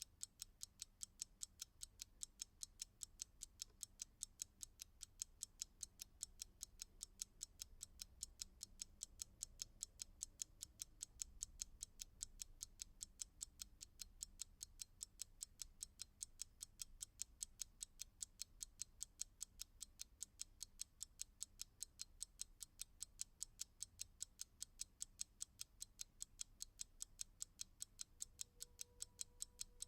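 Clock ticking steadily, with even, crisp ticks a few times a second.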